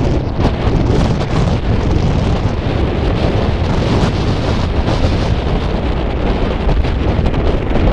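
Wind buffeting the microphone: a loud, steady rumble with a few gusts.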